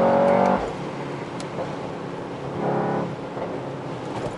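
Mercedes-AMG GT 63 S 4-door's 4.0-litre V8, heard from inside the cabin while accelerating at motorway speed. The engine note climbs, then drops away sharply about half a second in. A shorter rise in engine note comes near three seconds, over a steady drone of engine and road noise.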